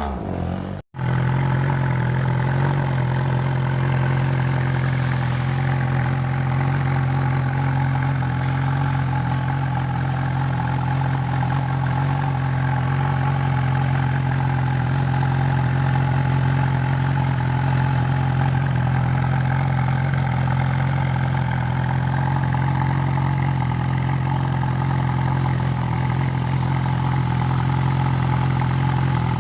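Large-displacement motorcycle engine idling steadily, a low, even exhaust note, after a brief dropout about a second in.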